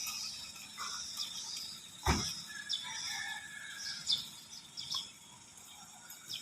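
Birds chirping in short falling calls over a steady high insect buzz, with one sharp knock about two seconds in.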